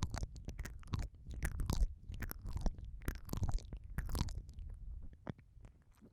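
ASMR ear-eating mouth sounds close on the microphone: irregular wet smacks, clicks and suckling noises over a low rumble, thinning out near the end.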